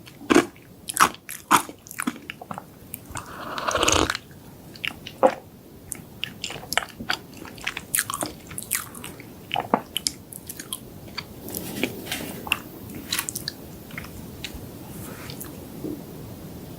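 Close-miked eating of chocolate desserts: a quick run of crisp crunching bites over the first few seconds, a louder rustling swell around the fourth second, then softer, sparser chewing.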